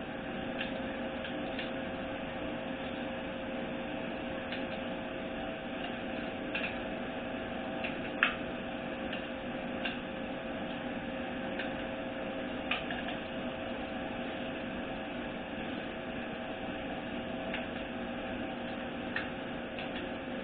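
Steady workshop hum with scattered light clicks from hand tools as the transmission pan bolts are run in and tightened. The sharpest click comes about eight seconds in.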